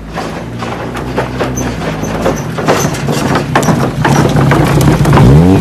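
Motorcycle engine idling with a steady low hum and scattered sharp clicks and knocks. Near the end it is blipped repeatedly, the pitch rising and falling with each rev, about two a second.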